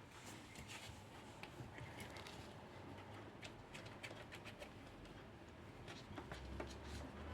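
Faint scratching with light, irregular clicks and taps, and a low hum coming up near the end.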